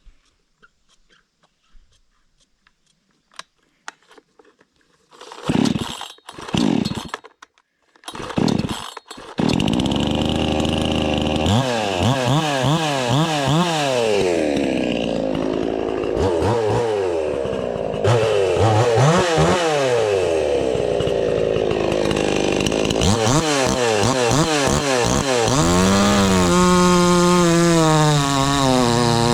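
Yizbao budget two-stroke gas chainsaw being started: it sputters briefly three times, catches about nine seconds in and keeps running. It revs up and down repeatedly, its pitch sagging at times as it works under load in the wood.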